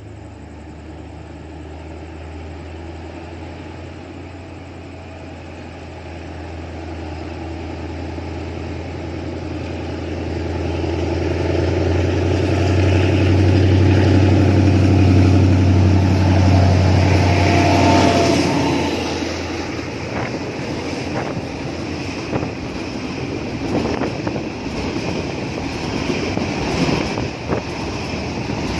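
Diesel locomotive hauling a freight train, its engine running steadily and growing louder as it approaches, then passing about eighteen seconds in. After it, the freight wagons roll past with the clicking of wheels over rail joints.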